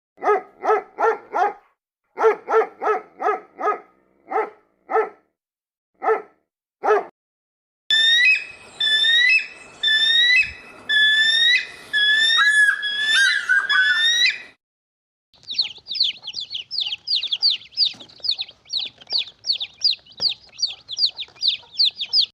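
A run of animal calls. First comes a series of short, sharp, dog-like barks, about fifteen in quick groups. Then follow several seconds of whistled calls gliding up and down, and finally a long run of rapid, high chirps falling in pitch, about three a second.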